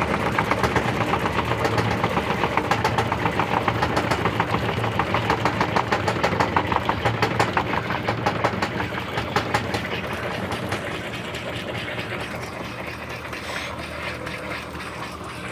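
Electrolux LT13B top-load washing machine running its drum, with rapid, even knocking from its suspension over the motor's hum: the noisy suspension under test. The knocking grows fainter over the last few seconds.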